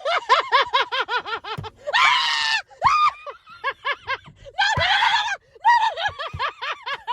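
Women screaming in short, rapid, high-pitched shrieks, with two longer harsh screams about two and five seconds in: a fright reaction.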